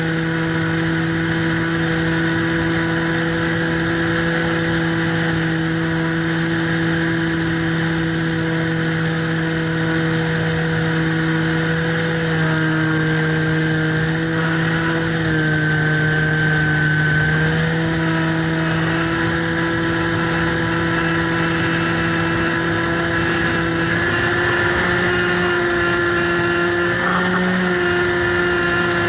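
Radio-controlled plane's motor and propeller droning steadily, heard from on board the aircraft. Its pitch shifts slightly with throttle changes around midway and again near the end.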